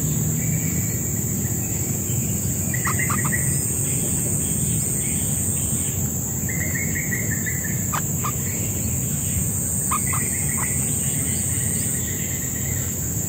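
Short trilled bird chirps in four bursts, with a few sharp clicks between them, over a steady high-pitched insect drone and a low rumble of background noise.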